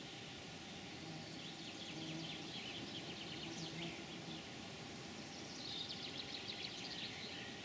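Songbirds singing in rapid high trills, two runs of song, over faint outdoor background noise.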